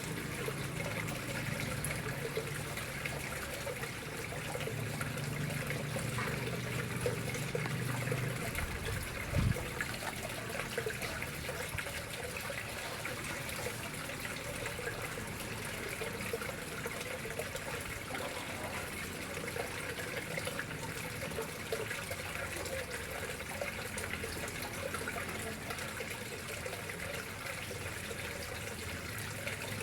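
Water trickling and splashing steadily into a koi pond, with a low hum during the first eight seconds and a brief low thump about nine and a half seconds in.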